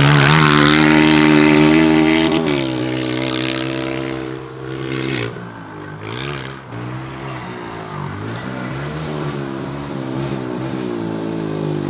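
Honda four-stroke pit bike engine running hard close by, then pulling away; it goes quieter after about two seconds and keeps rising and falling in pitch as the rider works the throttle around the track.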